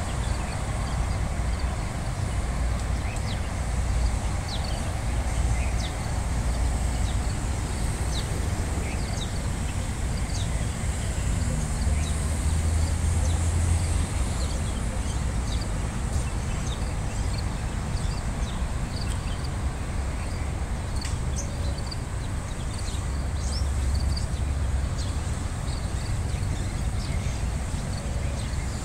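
Many small birds chirping in short, high calls throughout, over a steady low rumble.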